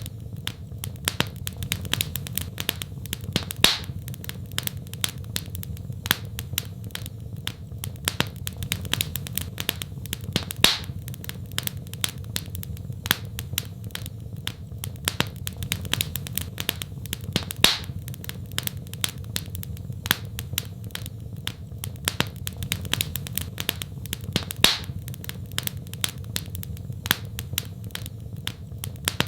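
Wood fire crackling in a fireplace: a steady low rumble under dense small crackles, with a louder pop about every seven seconds.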